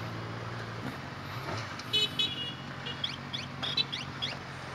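Motorcycle engine idling steadily. About two seconds in comes a quick run of short, high-pitched toots and chirps, louder than the idle.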